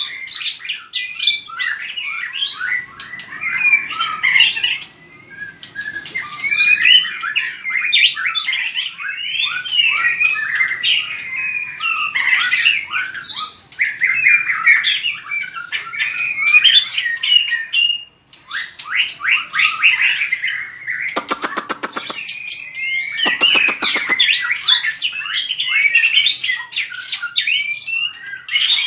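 White-rumped shama singing a rapid, varied competitive 'fighting' song of whistled and chattering phrases, with two harsh buzzy rasps about 21 and 23 seconds in.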